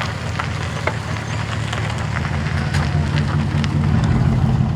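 Car engine running at low revs close by, its low rumble growing louder from about two seconds in, with scattered small clicks and crackles over it.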